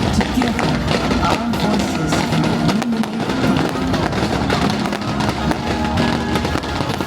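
Fireworks show soundtrack music from loudspeakers, with sharp firework bangs scattered through it.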